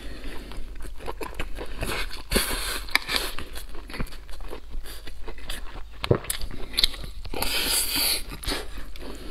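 Close-miked chewing and biting on a mouthful of braised pork belly and rice: a string of short sharp clicks, with longer, louder bursts about two seconds in and again near the end.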